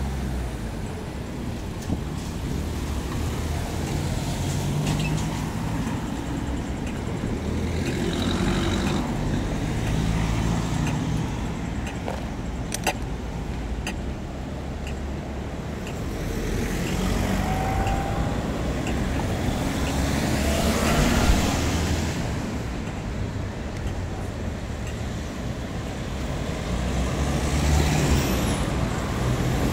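City street traffic: a steady engine rumble with cars passing close by several times, each swelling and fading with tyre noise.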